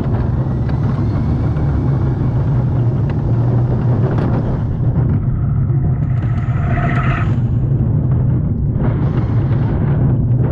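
Family roller coaster's train rolling along its track: a loud, steady rumble.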